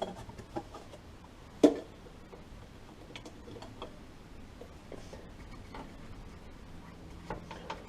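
Scattered light clicks and taps of hand work, with one sharp knock about a second and a half in.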